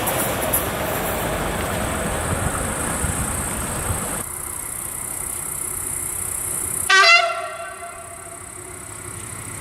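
A train rolling past, its wheel and rail noise dropping away at about four seconds. Near the seven-second mark a locomotive horn gives one short, loud toot that rings off over about a second.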